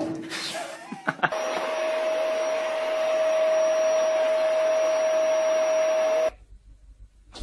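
Steady whirring machine noise with one steady humming tone in it, like a small electric motor running. It starts about a second in and cuts off abruptly near the end.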